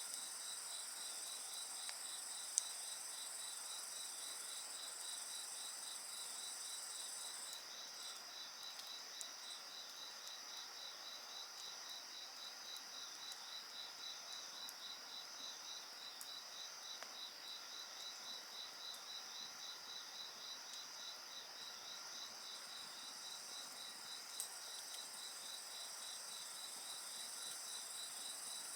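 Insects chirping in a steady chorus, one of them in an even, rapid pulsed chirp. A few sharp pops from a wood fire stand out, near the start, around a third of the way in, and near the end.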